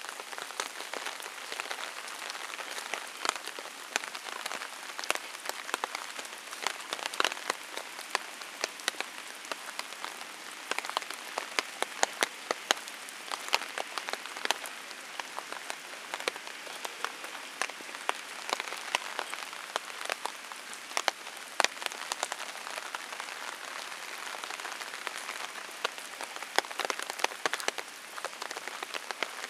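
Steady rain falling, an even hiss with many irregular sharp ticks of individual drops striking close by.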